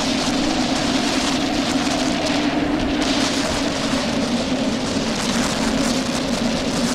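Rain hitting a moving car, over a steady engine and road drone.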